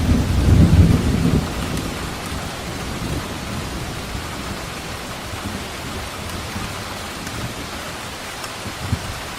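Steady heavy rain with a low thunder rumble that is loudest in the first second and a half and then dies away, leaving the rain on its own.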